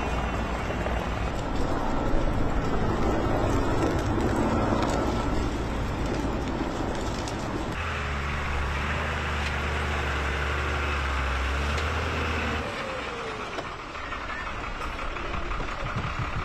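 Vehicle engine noise: a steady low hum with rumble, which changes abruptly about eight seconds in and again near thirteen seconds.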